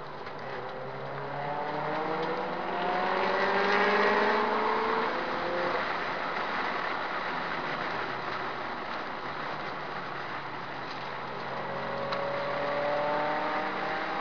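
Subaru Impreza S204's turbocharged flat-four engine accelerating on track, its pitch climbing for about four seconds, easing off, then climbing again near the end, over a steady rush of wind and tyre noise.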